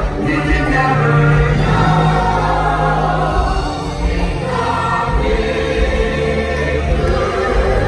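Stage-musical song: a chorus of voices singing together over backing music, loud and steady.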